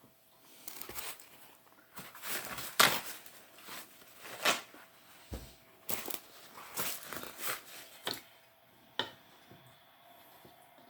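Eating sounds during a mukbang: irregular crisp crunches and clicks of chewing and utensils against a dish, coming in quick bursts for about eight seconds and then dying away.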